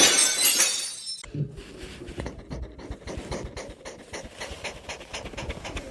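A loud burst of noise for about the first second, then a pet panting in quick, irregular breaths.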